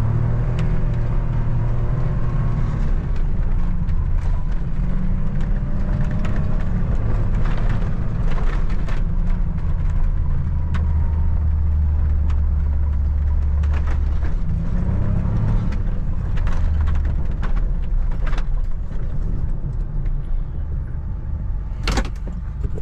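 A vehicle engine runs throughout while driving, its pitch rising and falling as the speed changes. Scattered knocks and rattles sound over it, with a couple of sharper clicks near the end.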